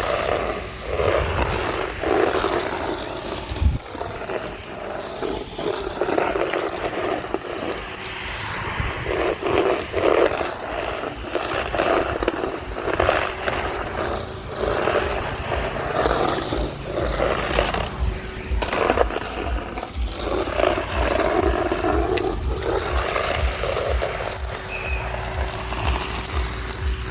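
Henry HVR200-22 vacuum cleaner running, its nozzle scraping along a street surface and sucking up crunchy grit and debris. The suction noise swells and fades every second or so as the nozzle is pushed back and forth, over a steady motor hum.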